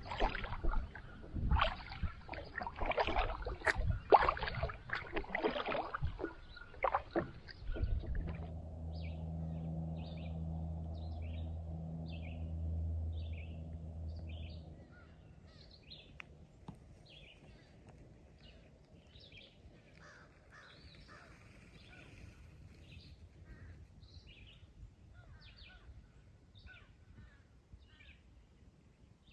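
Wild birds giving short, repeated calls over a quiet outdoor background. These follow louder irregular clattering in the first several seconds and a low steady hum that stops about halfway through.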